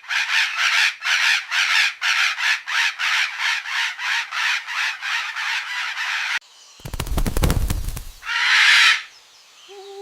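Cartoon parrots squawking in a quick run of harsh calls, about three a second, for some six seconds. A low rumbling burst follows, then one more loud harsh call near the end.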